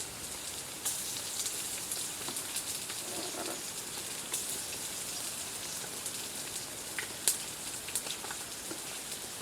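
Rain falling steadily, an even hiss with scattered sharper drops ticking on nearby surfaces.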